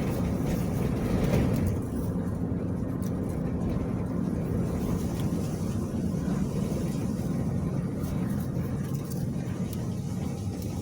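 Steady engine and tyre noise heard from inside a moving car's cabin, a low rumble that swells briefly about a second in.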